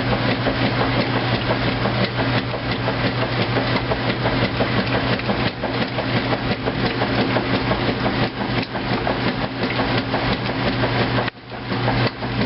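2008 Kenmore top-load washing machine running its heavy duty cycle: a steady motor hum with dense, rapid clattering from the machine. The sound drops briefly about 11 seconds in, then resumes.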